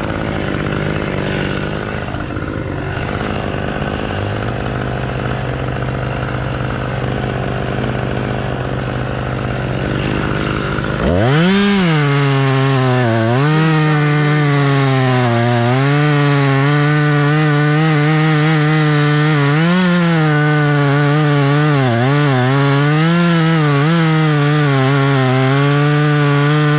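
Chainsaw idling, then about eleven seconds in revved sharply to full throttle and held there, its pitch dipping and recovering again and again as it works through wood.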